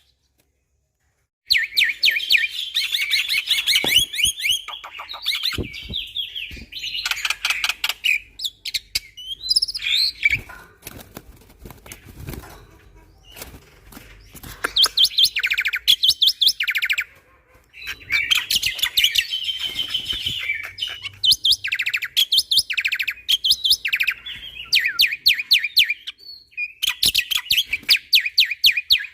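Black-winged myna (jalak putih) singing in bursts of fast, rapid-fire repeated notes, each burst lasting a second to a few seconds, with short pauses between. The song starts about a second and a half in.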